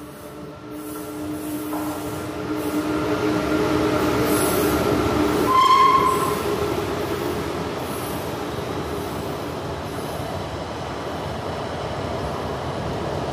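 WAP-5 electric locomotive approaching at speed with a steady whine, then sounding one short horn blast as it passes about six seconds in. The coaches of the express follow with steady wheel-on-rail noise.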